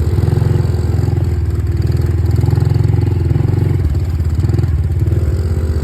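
Dirt bike engine running close by, its revs swelling and easing a little as it rides.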